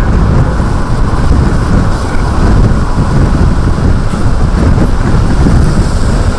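Loud, steady low rumble with no separate knocks or tones, steady throughout, of the kind that strong storm wind or a moving vehicle makes.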